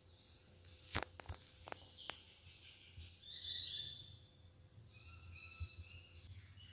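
Faint bird chirps: a short run of high notes in the middle and a few more notes later, after a few sharp clicks about a second in.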